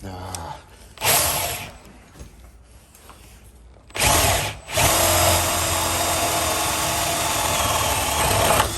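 Power drill boring the latch hole into the edge of a wood door: short bursts about a second and four seconds in, then a steady run from about five seconds in that stops near the end.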